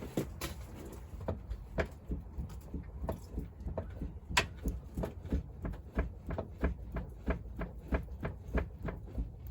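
Repeated short knocks, about two or three a second, from a Land Rover Discovery 2's anti-roll bar drop link as the body is rocked by hand: the knock of a worn drop link with a split in it.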